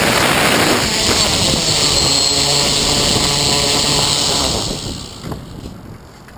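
F450 quadcopter's four electric motors and propellers running steadily, with a high whine over a rushing noise, then winding down about four and a half seconds in, leaving it much quieter.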